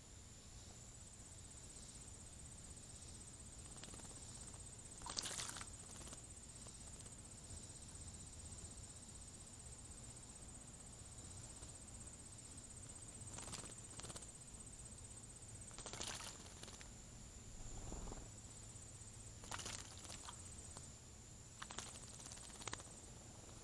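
Faint outdoor ambience: a steady high-pitched insect trill runs throughout, with a handful of brief sharp sounds scattered across it.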